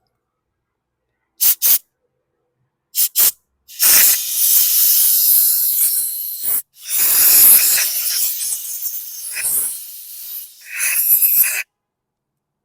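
Compressed-air blow gun blowing out carburetor passages: two quick double puffs of air, then long stretches of loud hissing with one short break partway through, stopping shortly before the end.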